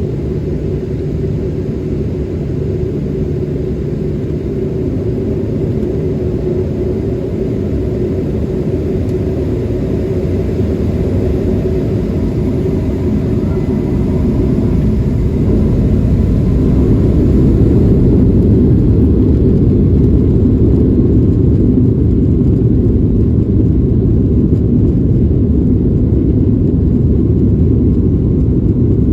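Boeing 737 jet engines heard from inside the cabin as a steady low rumble, growing louder about midway as the thrust comes up, with a faint rising whine, then holding at full strength.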